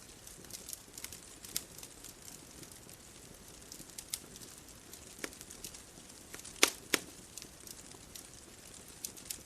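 Wood bonfire crackling: scattered sharp snaps and pops over a faint steady hiss, with two louder pops close together about two-thirds of the way in.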